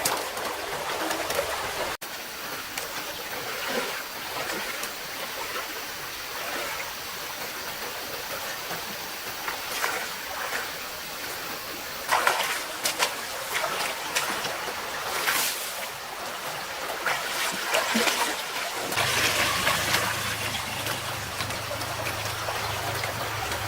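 Mountain stream running steadily, with a few short splashes. About two-thirds of the way through, a low steady hum joins in.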